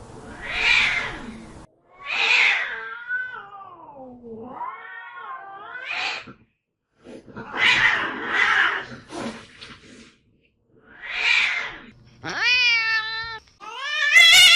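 Domestic cats hissing in short, sharp bursts, with a long wavering yowl about three seconds in and two higher yowls near the end. The sounds come in separate pieces with silent gaps between them.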